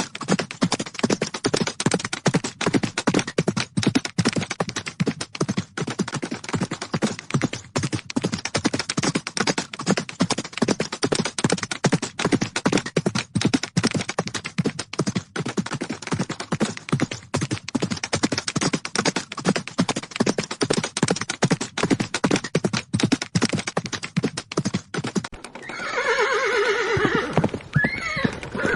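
Galloping horses' hooves: a rapid, dense patter of hoofbeats on the ground. Near the end a horse whinnies for about three seconds, its pitch wavering.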